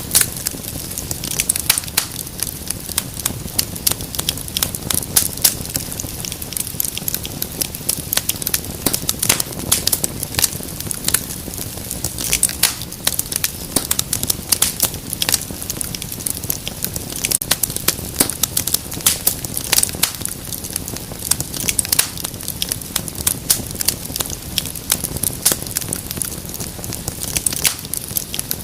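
Wood fire crackling steadily, with many irregular sharp snaps and pops over a low rumble of burning.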